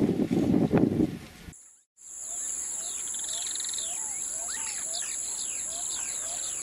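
Loud, rough rumbling noise like wind on the microphone for the first second and a half, then a short silence. After that, many birds chirping together, a low short call repeating about twice a second among quicker high chirps, over a steady high-pitched whine.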